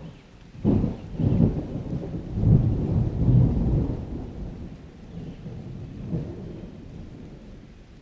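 A thunderclap breaks about a second in, then rolls into a low thunder rumble that swells a couple of times and fades away over several seconds, with rain falling steadily underneath.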